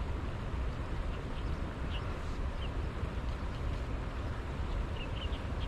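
Steady low rumbling outdoor background noise with a few short, high bird chirps scattered through it, a small cluster of them near the end.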